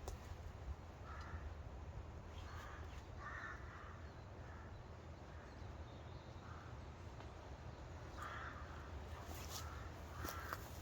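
Crows cawing: a series of short harsh calls, roughly one a second and irregularly spaced, some in quick pairs.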